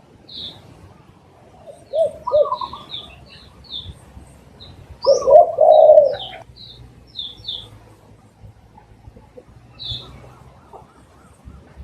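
Spotted dove cooing: a short pair of coos about 2 s in, then a longer, louder phrase about 5 s in. Small birds chirp high and brief throughout.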